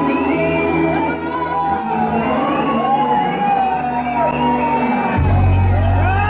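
A cinema audience whistling and cheering over the film's loud soundtrack music, many short rising and falling whistles overlapping. A deep bass boom comes in about five seconds in and holds.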